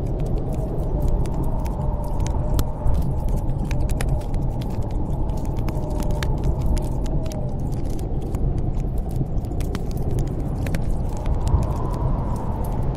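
Snowstorm wind blowing steadily with a faint wavering whistle, over a wood fire in a fireplace crackling with frequent sharp pops.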